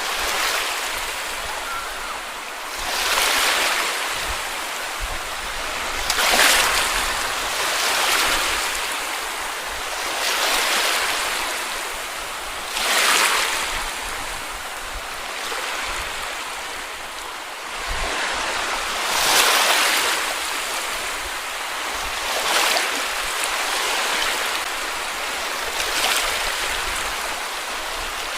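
Small waves washing onto a beach, each surge a rush of hiss that swells and fades, about every two to three seconds.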